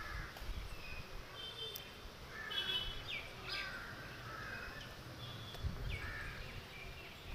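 Birds chirping and calling at intervals, short separate calls throughout, over a low background rumble.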